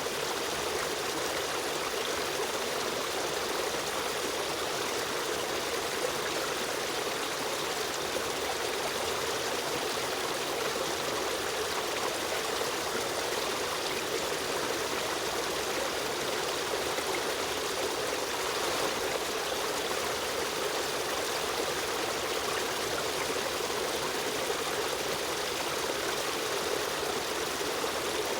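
Steady rush and trickle of a running river stream, even and unbroken.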